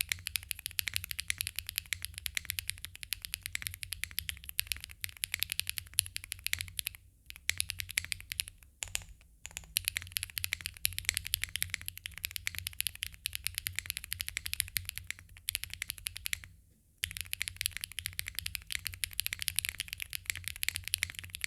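Fast, continuous typing on a TKD Cycle7 custom mechanical keyboard with a carbon-fibre plate, plate foam and case foam, keys clacking in dense runs with short pauses about 7, 9 and 17 seconds in.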